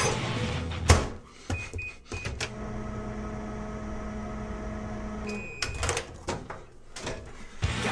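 An electronic appliance gives three short high beeps, then runs with a steady hum for about three seconds and ends on a longer beep. A loud thump comes just before the beeps, and clicks come after.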